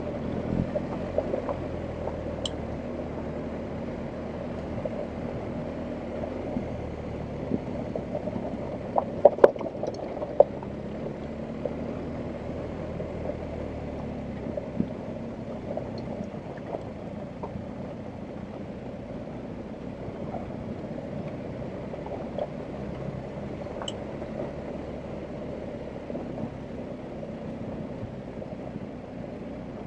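BMW R1250GS Adventure's boxer twin engine running steadily on a dirt track, with a few sharp knocks about nine to ten seconds in and scattered small ticks.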